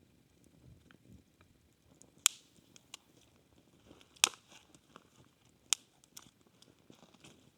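A scatter of faint ticks with three loud, sharp snaps about two, four and a half, and six seconds in.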